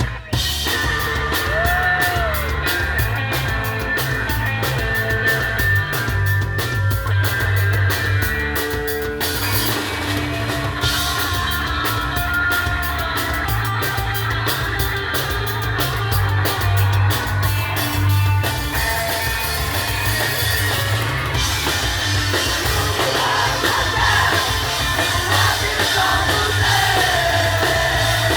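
Punk rock song played by a band: fast drum kit, distorted guitars and shouted, yelled vocals. The drumming is densest in the first third, and the arrangement shifts about nine seconds in.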